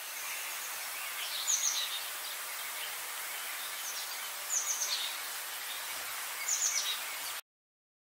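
Outdoor nature ambience: a steady high-pitched hiss with three short bursts of high, downward-sweeping bird calls a few seconds apart. It cuts off suddenly near the end.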